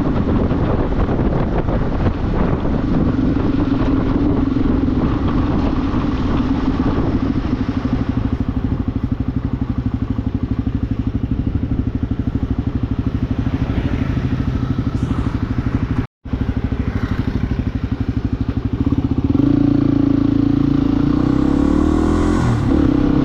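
Motorcycle engine running steadily under way, with a brief cut-out about sixteen seconds in and a louder stretch near the end.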